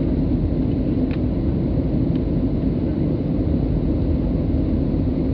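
Steady in-flight cabin noise of a Boeing 737-800 with CFM56-7B engines, heard from inside the cabin: an even low rumble of engines and airflow with a steady hum, and a couple of faint ticks.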